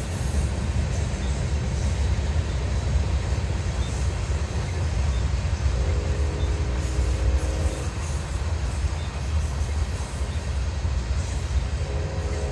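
Grain train of covered hopper cars rolling along the track, a steady low rumble of wheels on rail. Faint sustained tones come in briefly around the middle and again near the end.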